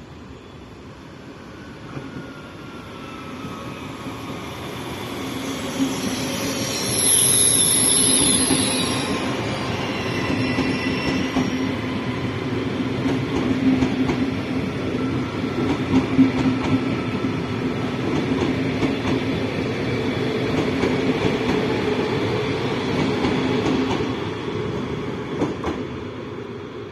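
PKP Intercity ED250 Pendolino electric train passing through a station at speed without stopping. Its rumble builds as it approaches, with a high whine and hiss loudest as the front passes about seven seconds in. Then comes the steady rumble of the cars with wheels clicking over the rail joints, fading near the end.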